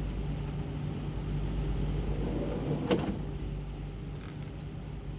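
Steady low hum of a warship's engines and machinery, easing slightly in level after a single sharp knock about three seconds in.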